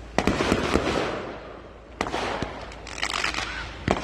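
Fireworks going off: sharp bangs about a fifth of a second in and several more through the first second, another about two seconds in and one near the end, with crackling in between.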